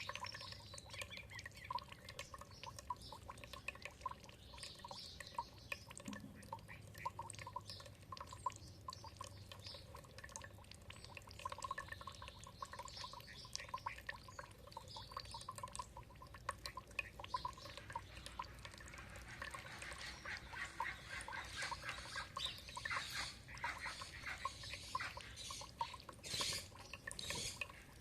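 Birds chirping over steadily dripping, trickling water, the calls growing busier in the second half.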